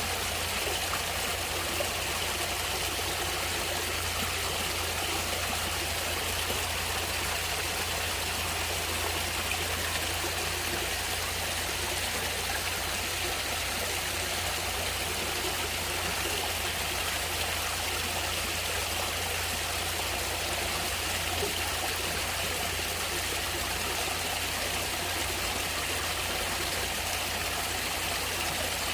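Natural stream water flowing steadily: an even, unbroken rushing hiss with a low rumble underneath.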